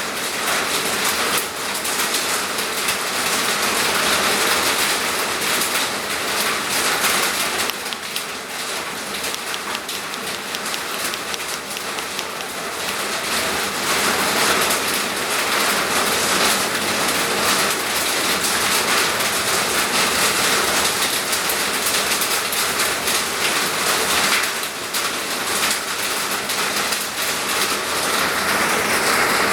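Heavy rain falling, a dense steady hiss of many drops that eases a little twice.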